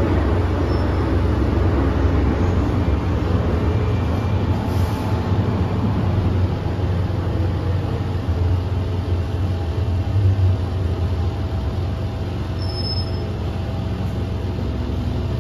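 MTR M-train electric multiple unit running, a steady rumble with a faint whine from its traction motors.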